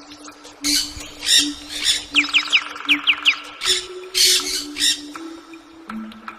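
Birds calling: harsh, raspy squawks in quick groups of three, twice, with a run of about seven short, quick, down-slurred whistled notes between them. A faint low steady hum sits underneath and steps in pitch a few times.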